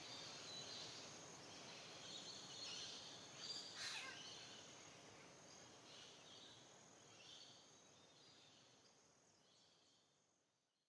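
Faint forest ambience: small birds chirping and calling over a soft background hiss, with one sharp click about four seconds in. The sound fades out steadily toward the end.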